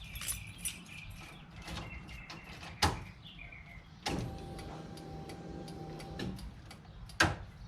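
Clicks and knocks from a car being got ready for a first start of its freshly swapped engine, with a sharp knock about three seconds in and another near the end. In between, a steady electric hum lasts about two seconds as the ignition is switched on.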